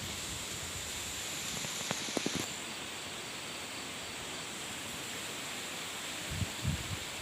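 Steady hiss of outdoor background noise, with a thin high steady tone over it, a few sharp clicks about two seconds in and a couple of soft low knocks near the end.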